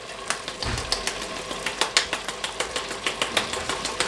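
Ground-meat and vegetable sauce frying in an Instant Pot on sauté: a steady sizzle with a run of quick, irregular clicks and crackles, several a second, and one dull bump near the start.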